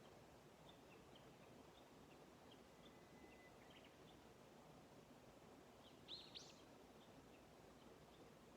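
Faint small birds chirping over a quiet rural background, with a brief held whistle a couple of seconds in and a louder pair of chirps about six seconds in.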